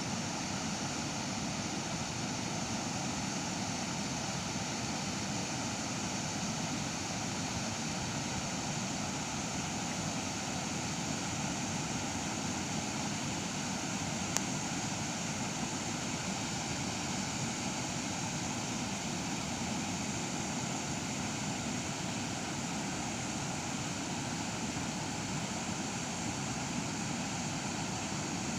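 Steady rush of a waterfall, water pouring continuously over rocks, with a single sharp click about halfway through.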